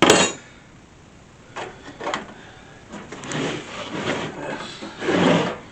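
Parts of a diesel air heater kit being handled and unpacked: a sudden clatter, two sharp knocks, then stretches of scraping and rustling of packaging.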